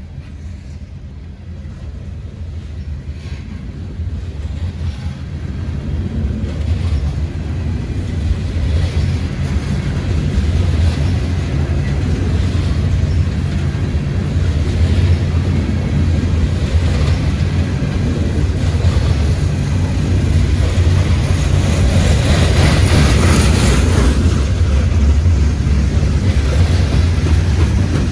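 CSX diesel locomotives pulling a loaded coal train, the engines' low drone growing louder over the first ten seconds or so as the train draws near, then holding steady with the rattle and clicking of wheels on rail.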